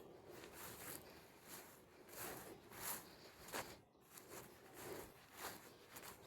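Faint rustling with soft, irregular scuffs.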